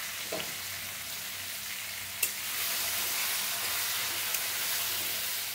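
Taro and potato pieces sizzling in hot oil in a stainless steel kadai, being turned with a metal spatula. There is a sharp clink about two seconds in, and the sizzle grows louder just after it as the pieces are stirred.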